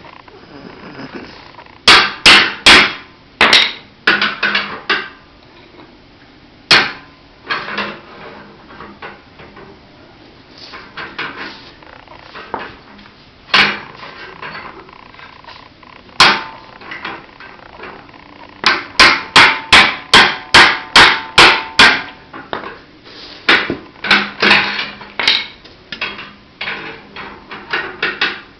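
Hammer blows on metal, knocking a hole through the internal baffle of a Suzuki Boulevard C50/M50 muffler: bursts of quick strikes, about four or five a second, with single blows and pauses between.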